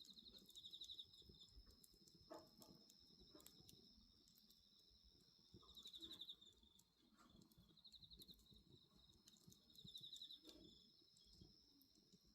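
Night insects calling softly: a steady high-pitched trill with bursts of pulsed chirping every few seconds. A bonfire crackles with a few sharp pops.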